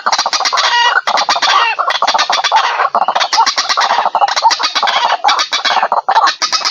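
White-breasted waterhen (ruak-ruak) calling loudly and without let-up: harsh notes repeated rapidly in long phrases, with brief breaks about a second in, about three seconds in and about six seconds in.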